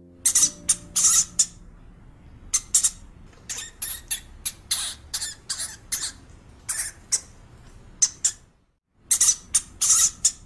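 A rapid series of short, high-pitched calls from a small animal, with a brief break in the middle of the series.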